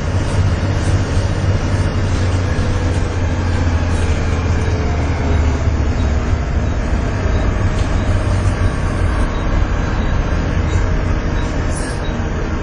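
Volvo B7TL double-decker bus's six-cylinder diesel engine running hard under heavy throttle, heard from on board: a loud, steady low drone with the vacuum-cleaner-like whine that enthusiasts call "hoovering". A fainter whine rises in pitch about four seconds in.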